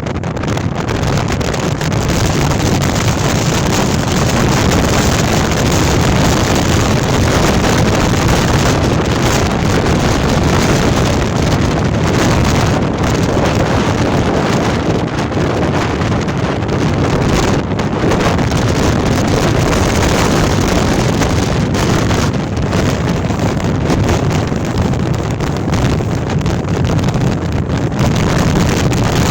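Storm-force wind of around 80 to 100 mph blasting across the microphone: a loud, continuous rush and rumble that swells and eases in gusts.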